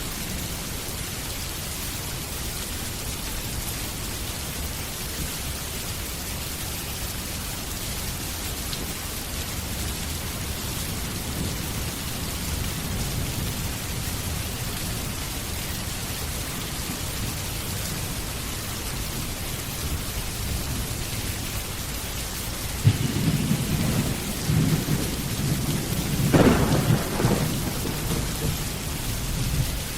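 Steady heavy rain, with a roll of thunder breaking in sharply about three-quarters of the way through, peaking with a louder crack and rumbling away near the end.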